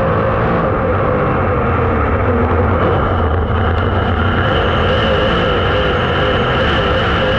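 Dirt-track super late model race car engine running steadily under load, with a steady high whine joining about three seconds in.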